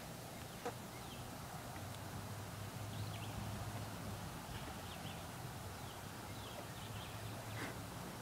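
Small birds chirping faintly and intermittently over a steady low hum, with one sharp click about half a second in.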